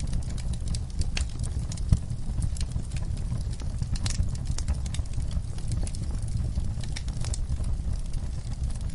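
Fireplace fire burning with a steady low rumble, with crackles and pops at irregular intervals throughout.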